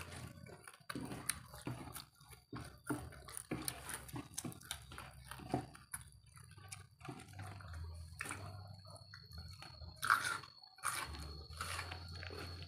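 Close-up eating sounds of spicy fried noodles and chicken wings being chewed: irregular crunches, wet mouth clicks and lip smacks, with a louder mouth noise about ten seconds in.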